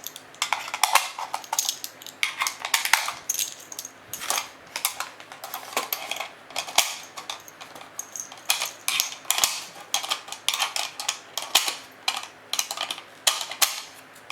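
Irregular metallic clinks and rattles as loose 7.62x54R rifle cartridges and the metal surplus ammo tin are handled, with many sharp, ringing knocks.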